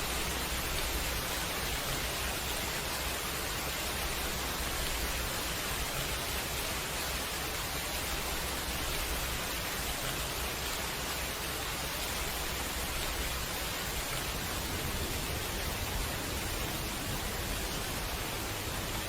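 Steady rain falling at night, an even unbroken hiss with a low rumble underneath.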